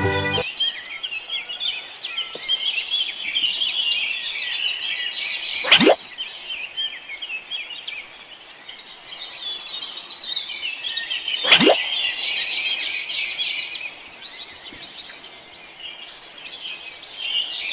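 Many small birds chirping and twittering together in a dense chorus. Twice, about six seconds apart, a quick loud falling sweep cuts through it.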